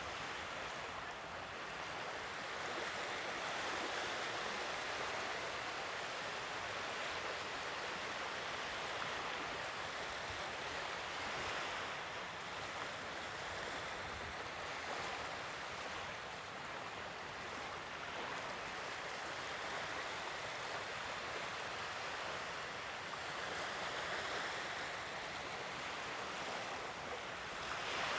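Sea waves washing onto a shore: a steady rush of surf that swells gently every few seconds.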